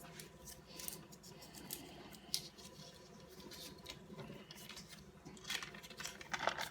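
Faint scattered clicks and rustles of a stick of margarine being handled and added to a bowl of flour, with a few sharper ticks about two and a half seconds in and near the end.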